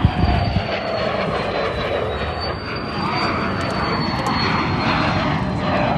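Fixed-wing aircraft engine noise as a display plane flies by, a loud steady rush with a thin high whine that slowly falls in pitch. A sharp bump comes right at the start.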